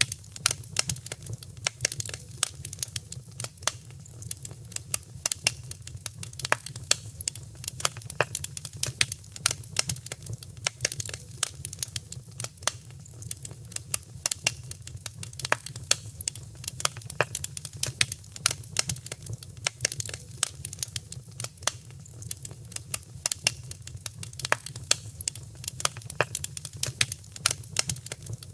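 Wood fire in a fireplace crackling, with dense irregular sharp pops and snaps several times a second over a low steady rumble.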